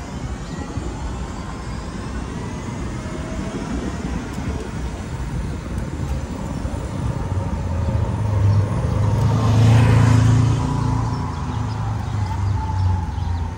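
Street traffic: a motor vehicle passes close, its engine hum and tyre noise building to a peak about three-quarters of the way in, then fading.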